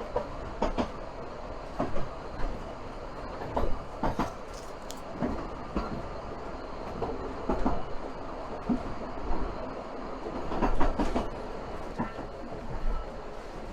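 Vale of Rheidol Railway narrow-gauge steam train heard from inside a moving carriage: a steady low rumble with irregular knocks and rattles as the wheels clatter over the track and the carriage shakes.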